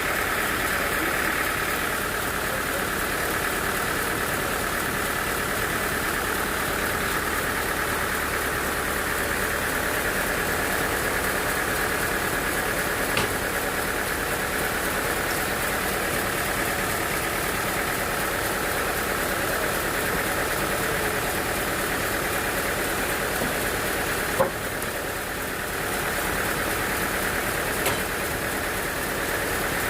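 Sawmill machinery running steadily, with a few sharp knocks; the sound drops briefly after one knock near the end.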